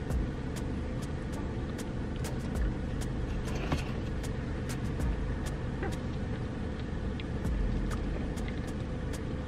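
Steady low hum of a car idling, heard from inside the cabin, with faint sharp ticks scattered through it.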